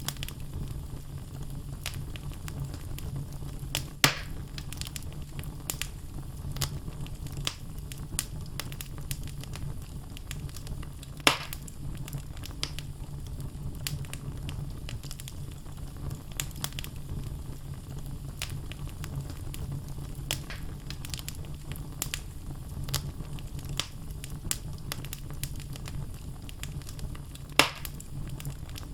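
Wood fire burning in a fireplace: logs crackling with frequent small snaps over a steady low rumble, with three louder pops about four seconds in, about eleven seconds in, and near the end.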